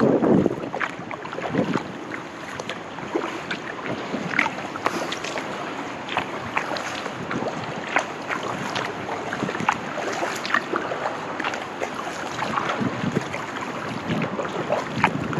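Kayak paddle strokes: water splashing and dripping off the paddle blades and lapping at the hull, many small irregular splashes over a steady wash. A burst of wind noise on the microphone dies away in the first half-second.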